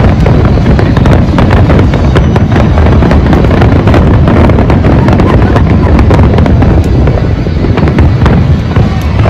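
Fireworks going off in a dense, continuous barrage, many bangs and crackles overlapping with no pause, loud throughout.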